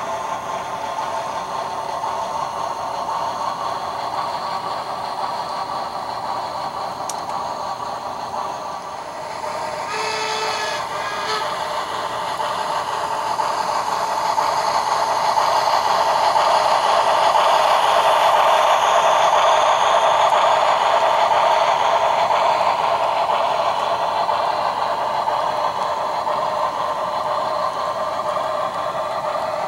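The steam and running sounds of an HO scale Shay locomotive model, played by its LokSound 5 sound decoder through the model's small speaker. It is a steady mechanical hiss that swells louder about halfway through, with a short steam whistle about ten seconds in.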